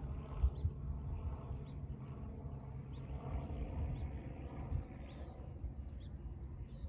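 Outdoor ambience of wind rumbling on the microphone, with short bird chirps scattered throughout.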